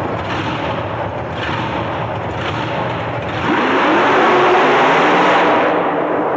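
A race truck's engine running hard under full throttle. About three and a half seconds in it gets louder and rises in pitch, holds high, then eases slightly near the end.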